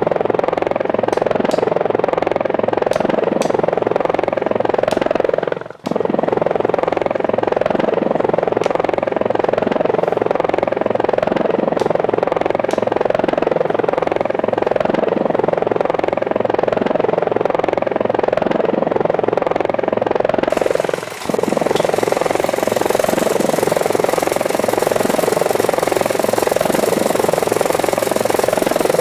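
Steady whirring buzz of a small remote-controlled rotorcraft's motors and rotors, with a fast pulsing beat. It drops out briefly twice, about six seconds in and again about 21 seconds in.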